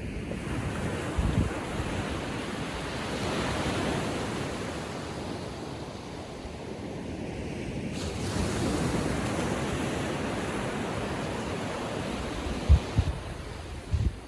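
Small ocean waves breaking and washing up a sandy beach on a calm sea, the surf swelling twice. Wind buffets the microphone in a few short low thumps, the sharpest near the end.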